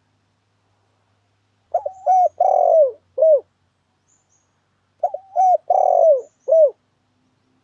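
Spotted dove (tekukur) lure call: a four-note coo phrase of two short notes, a longer falling note and a short final note, sounded twice about three seconds apart.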